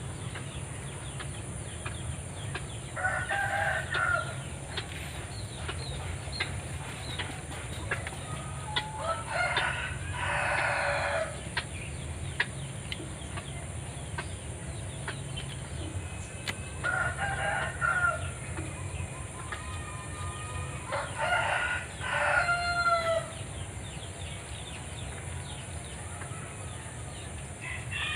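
Rooster crowing repeatedly, a long crow every several seconds, about five in all.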